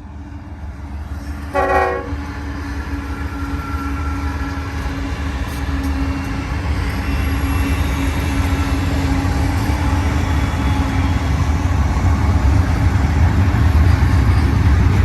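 Diesel freight train approaching, its low rumble growing steadily louder, with a short locomotive horn blast about a second and a half in.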